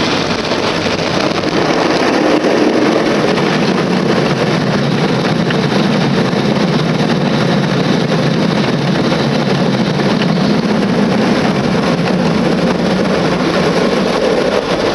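Automatic drive-through car wash working over the car, heard from inside the cabin: a loud, steady rush of water and machinery on the car's body.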